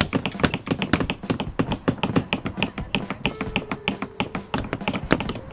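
Several hammers tapping nails into the wooden pieces of kids' build kits: quick, irregular taps, several a second, overlapping one another.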